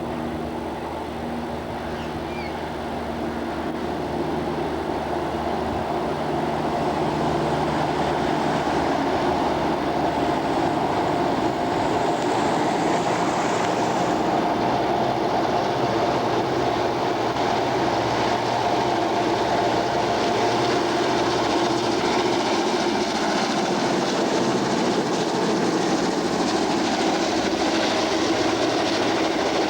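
A diesel-electric locomotive's engine running as a train draws near, growing louder over the first several seconds. Then the train rolls steadily past with a continuous rumble of wheels on rail.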